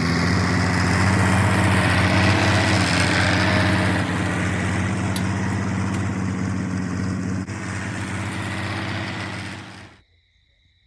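Farmall H tractor's four-cylinder gasoline engine running steadily, then cutting off abruptly near the end.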